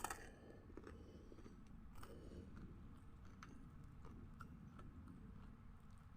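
Faint, close-miked chewing with small wet mouth clicks while eating, with one sharp crunch or click right at the start.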